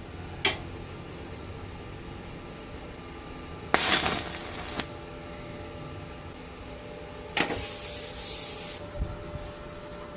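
Two short bursts of welding arc crackle and hiss, about a second each, like tack welds being struck. A sharp click comes before them and a dull knock after.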